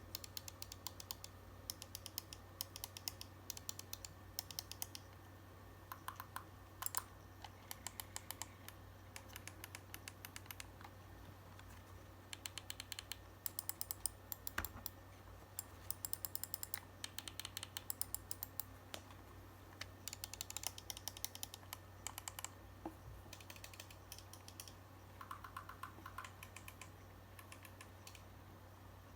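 Razer Basilisk V2 gaming mouse buttons clicking in quick bursts of rapid clicks, with short pauses between the bursts.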